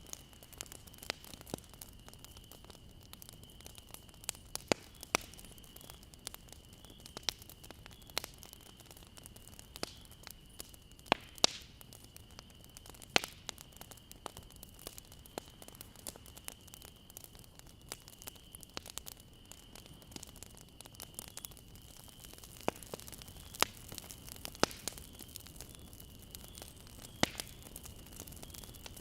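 Campfire burning, with a soft steady hiss and irregular sharp crackles and pops from the burning wood, a few of them much louder than the rest. A faint steady high-pitched tone runs underneath.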